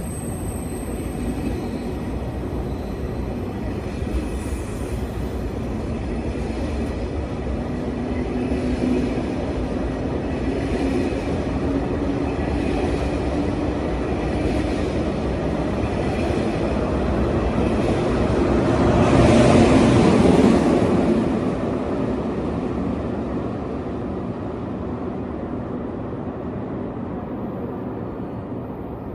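A train running through a station: a steady rumble and rush of wheels on rail that builds to its loudest about two-thirds of the way through, then slowly fades.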